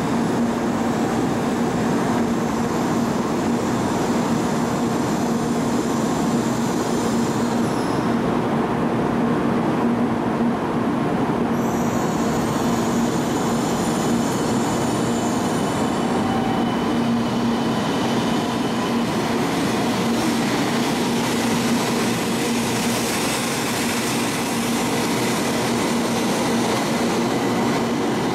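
A 700 series Shinkansen train (Rail Star) at a station platform, with a steady electrical hum. In the second half it pulls out, and the hiss of its motors and wheels rises as it gathers speed.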